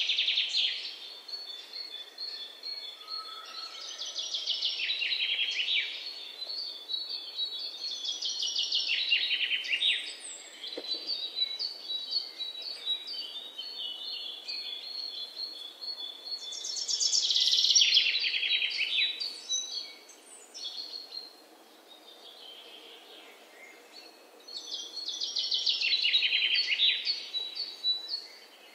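Birds singing, with loud phrases of rapid high notes every few seconds and quieter high chirps between them.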